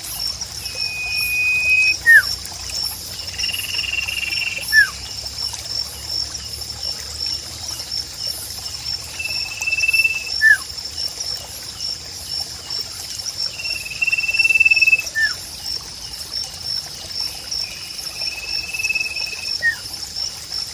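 Calls of the songbird Indonesian bird-keepers call "sirpu": a held clear whistle followed by a short falling note, the phrase repeated about four times, roughly every five seconds. Trickling water runs under it, and a steady high pulsing trill sits above it.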